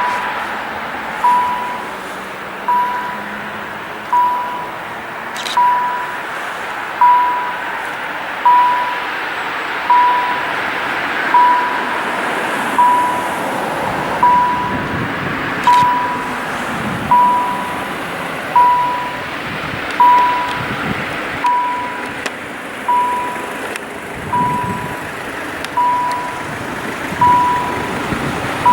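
Railway level crossing warning signal beeping, one short high beep about every one and a half seconds, warning of an approaching train, over a steady outdoor hum.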